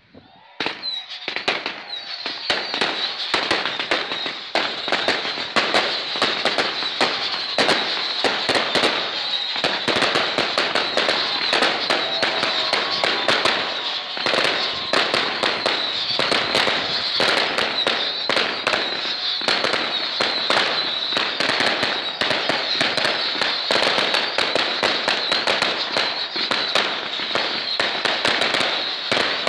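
A single-fuse firework cake going off in a dense, unbroken run of rapid bangs and crackles over a steady high hiss. It builds up about a second in.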